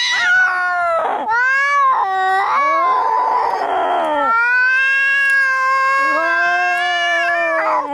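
Angry cats fighting: loud, drawn-out caterwauling yowls that bend up and down in pitch, broken by a harsh, noisy stretch about three seconds in, then one long, steady yowl.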